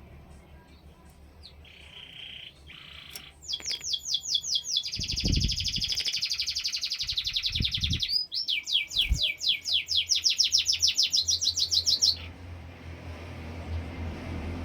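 A songbird singing a fast, rapid trill of repeated sweeping notes in two long phrases, with a short break between them, over a few low thumps.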